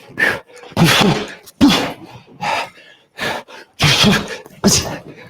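A man's short, breathy exhales and grunts, one with each punch thrown, about seven in a quick, even run.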